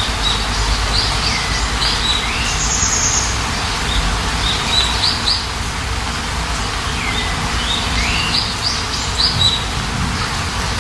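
Steady rain hiss with songbirds chirping over it in short phrases of quick notes, some sweeping downward, three phrases in all.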